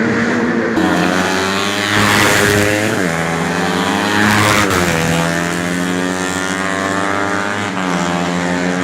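Four-stroke 125 cc underbone race motorcycles running hard, their engine pitch climbing and dropping back sharply several times.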